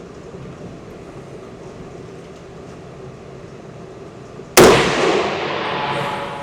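A single rifle shot from a 300 Blackout rifle about four and a half seconds in, followed by a long echoing decay. It is the third shot of a three-shot group.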